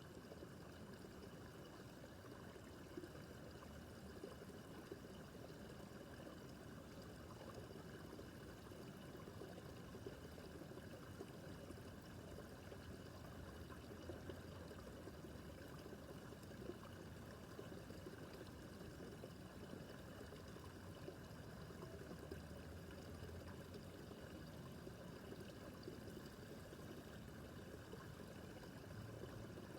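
Small brook babbling steadily: water trickling and splashing over stones, with a constant gentle rush and small flicking splashes.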